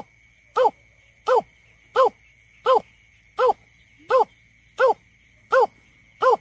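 Greater painted-snipe giving its hooting call: short, low, hollow hoots, about ten in a row, evenly spaced at roughly one and a half a second. A faint steady high tone runs underneath.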